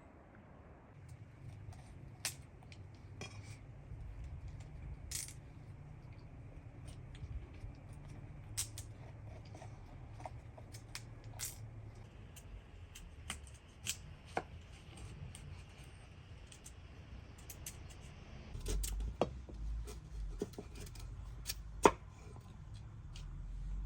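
Scattered sharp clicks and knocks of hands working with cooking things, a few closer together near the end, over a steady low rumble of wind on the microphone.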